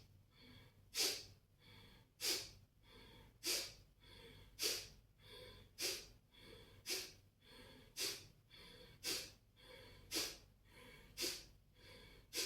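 Kapalabhati breathing: short, forceful exhalations pumped out through the nose by the abdomen, about one a second in a steady rhythm, with only faint passive inhales between.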